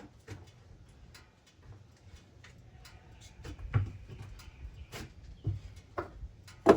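Scattered light clicks and knocks of tools and parts being handled, with one sharp knock near the end.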